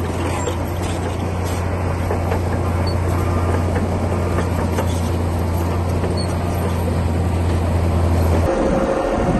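Komatsu D60P bulldozer's diesel engine running steadily under work, a constant low drone with mechanical noise over it. Near the end the low drone drops away and the sound changes.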